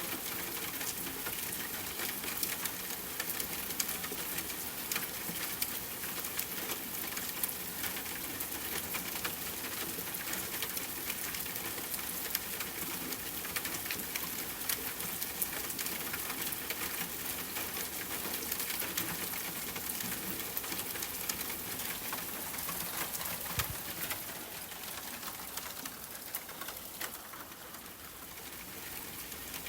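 Steady rain falling and pattering, with many small drops ticking. Low bird calls sound through it during the first part, and the rain eases slightly in loudness near the end.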